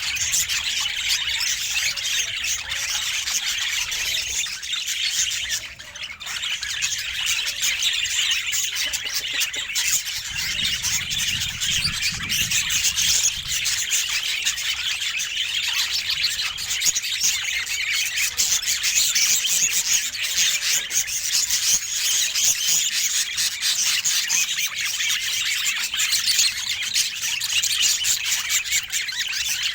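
Budgerigars chattering and warbling continuously, a dense stream of quick chirps and squawks.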